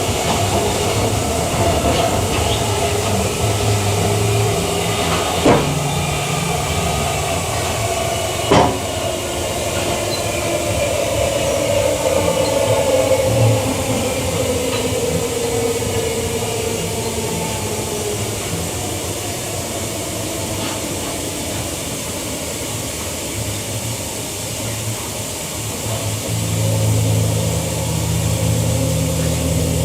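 Queensland Rail EMU electric train running, heard from inside the carriage: a steady rumble and hiss with two sharp knocks from the wheels on the track, about three seconds apart, and a whine that falls in pitch around the middle.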